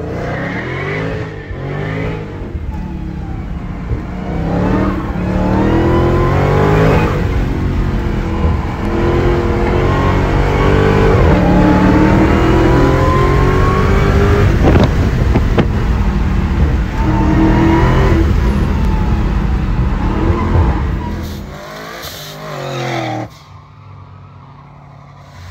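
Dodge car's engine accelerating hard through the gears, heard from inside the cabin on a run down the track: the engine note climbs, drops at each shift and climbs again, several times over. Near the end it cuts off suddenly, leaving only faint background noise.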